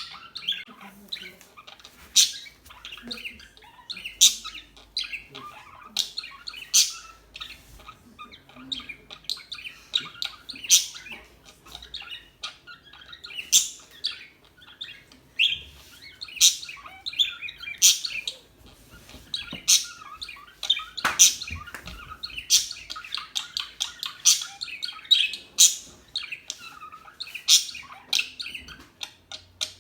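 Budgerigars chirping and chattering: sharp high chirps about every second over a steady, busy warble.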